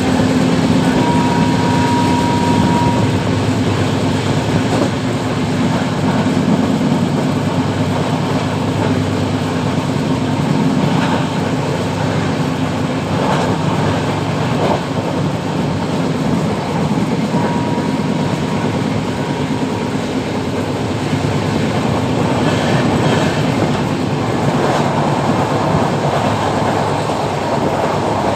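Passenger train running along the track, a steady rumble with the clickety-clack of wheels over rail joints.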